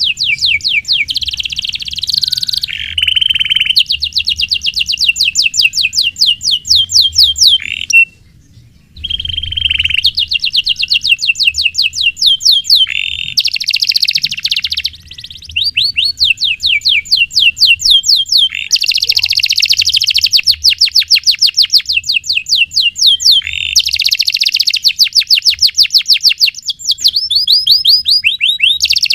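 Domestic canary singing long, fast rolls of rapidly repeated chirps, one roll running into the next, with a short break about eight seconds in.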